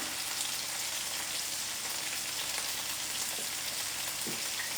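Chicken tenders frying in hot olive oil in an uncovered skillet: a steady sizzle with occasional small pops as the oil spits.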